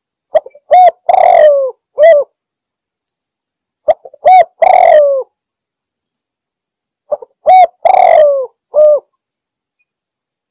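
Spotted dove (tekukur) cooing: three loud phrases about three and a half seconds apart, each a couple of short notes, a longer coo that falls in pitch, and a short closing coo.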